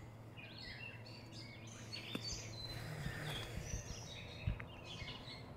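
Birds chirping in the background, many short varied calls, over a low steady hum. A single soft thump about four and a half seconds in is the loudest moment.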